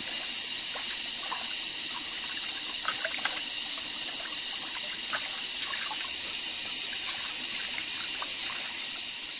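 Water trickling steadily, with a high, even hiss and many small splashes and drips.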